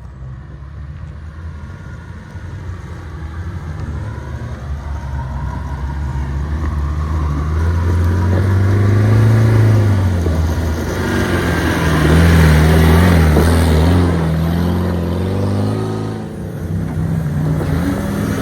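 Off-road race car engine revving hard, growing louder to a peak about halfway through and easing off near the end, its pitch rising and falling with the throttle.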